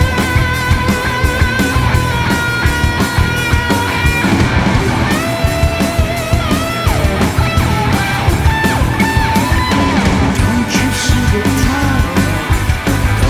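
Rock music: electric guitar over drums and bass, with a melodic lead line that bends and is held with vibrato.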